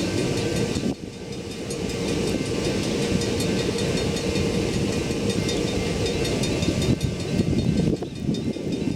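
A CN freight train rolling past, a steady rumble of wheels on the rails.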